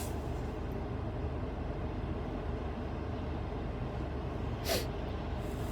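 Steady car-cabin road noise while driving on a wet, slushy road: a low rumble of engine and tyres with a faint hiss above it.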